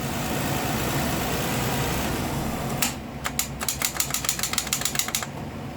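A 2002 Toyota Solara's starter clicking rapidly, about eight or nine clicks a second for a little over two seconds, without the engine cranking or catching; the owner takes it for a broken starter. Before the clicking there is a steady rushing noise for about three seconds.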